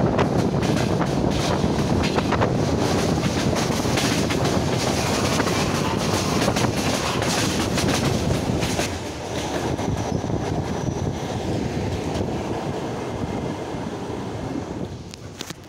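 Suburban electric train running at speed, heard from a carriage window, its wheels clattering over the rail joints. The noise eases a little about nine seconds in and falls away near the end.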